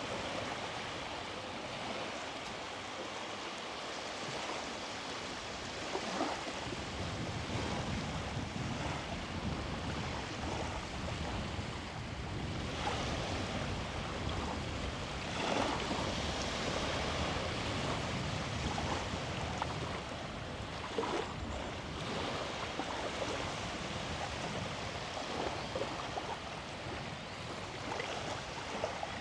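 Small sea waves washing onto a beach: a steady rush of surf with a few louder breaking swells, and some wind rumble on the microphone from about six seconds in.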